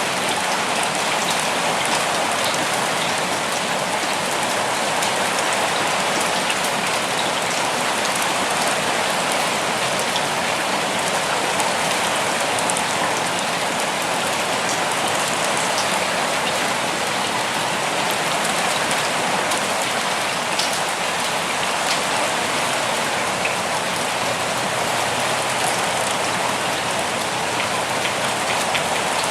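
Steady rain falling, a dense, even hiss with many small drops pattering on surfaces.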